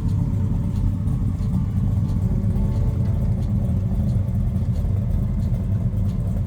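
The 400 V8 of a 1965 Dodge Coronet 500 restomod, breathing through long-tube headers, running steadily with a deep low rumble.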